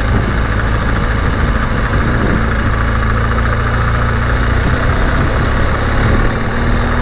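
BMW GS Adventure motorcycle engine running steadily at low revs, picked up by a helmet-mounted camera.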